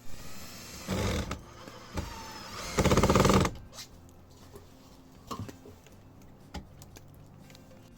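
Cordless drill-driver running in two short bursts, driving self-tapping screws into chimney pipe fittings. The second burst, around three seconds in, is the louder and longer, about half a second. A couple of light taps follow.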